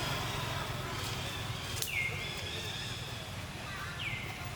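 High-pitched animal call that drops sharply in pitch and then holds briefly, twice about two seconds apart. A sharp click comes just before the first call.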